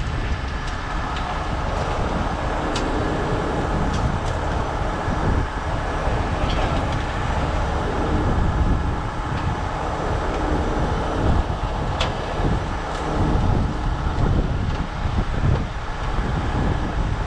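Steady, loud rumble of heavy diesel vehicles, with a few sharp clicks or knocks scattered through it, the clearest about twelve seconds in.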